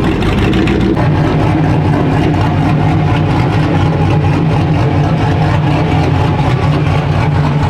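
A truck engine running loudly and steadily at an even, low pitch, with a rapid pulsing exhaust note.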